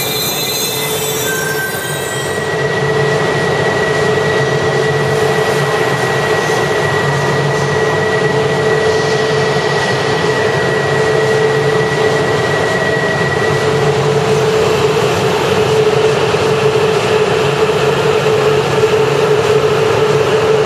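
E4 series Max double-decker Shinkansen running slowly past the platform: steady rumble of wheels and running gear with a continuous hum, and a thin high whine that sets in about two seconds in and fades out about two-thirds of the way through.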